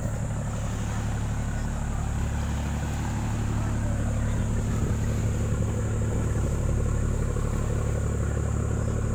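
Steady low engine drone of a fast passenger boat running.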